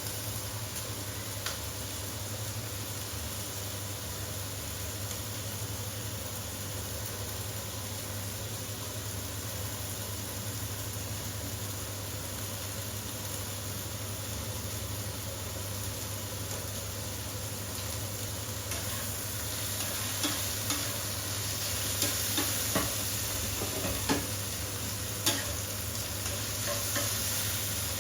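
Chicken pieces sizzling and spitting in a hot frying pan, a steady hiss. In the second half come a handful of short clicks from a utensil against the pan as the pieces are moved.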